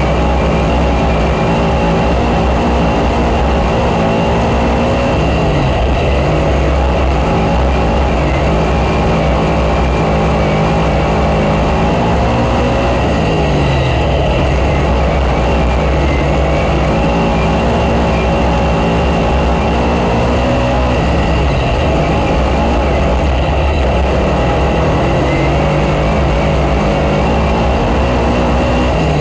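Race car engine at full racing speed, its note dropping off and climbing back up again and again, about every seven or eight seconds, as it lifts for the corners and accelerates out.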